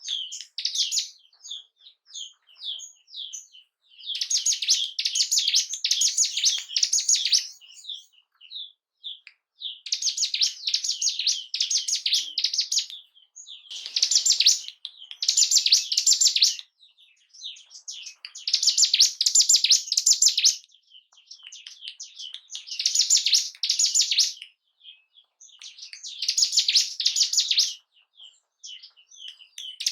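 Ciblek gunung, a mountain prinia, singing in repeated fast, high, chattering bursts of two to three seconds each, with scattered single chirps in the short gaps between them. This is a lure song (pancingan) used to provoke a caged bird into singing.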